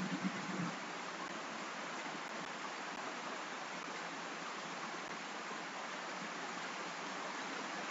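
Steady hiss of rain, even and unbroken, with a couple of faint low bumps at the very start.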